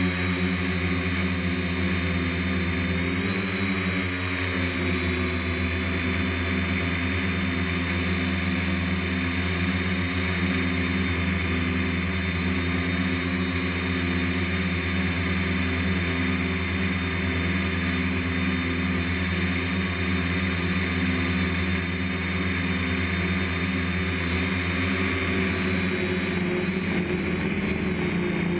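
DJI F550 hexacopter's six electric motors and propellers running with a steady whine. The pitch shifts briefly about three to four seconds in and again near the end as the throttle changes.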